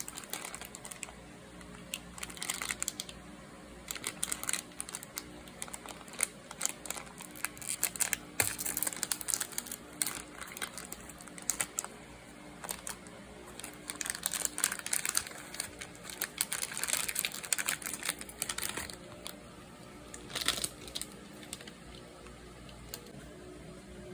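Packaging crinkling and crackling as it is handled, in repeated bursts of rapid clicks with short pauses between them.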